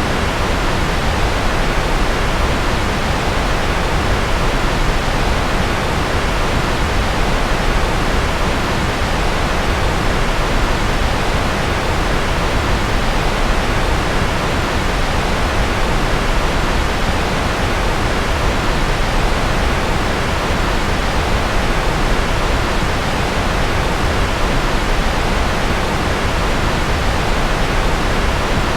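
Steady, unchanging rushing noise of a continuous white-noise track billed as rocket noise. It is heavier in the low and middle range, with no pitch, beat or breaks.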